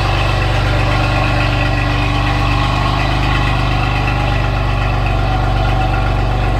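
Car engine idling steadily, a loud, even low running sound with a fine regular pulse.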